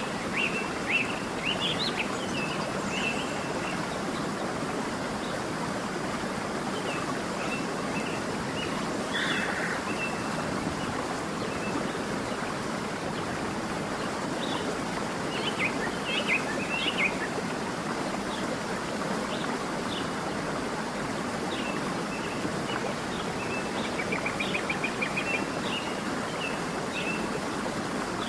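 Steady rush of running water from a stream, with small birds chirping on and off over it and a quick trill of chirps near the end.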